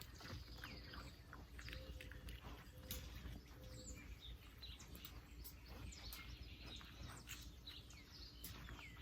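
Faint, scattered bird chirps over low background rumble, with a few light clicks.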